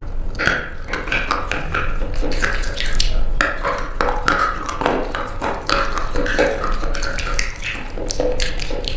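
Old, dried-out bar soap crunching and cracking as it is cut, a dense run of irregular crisp crackles.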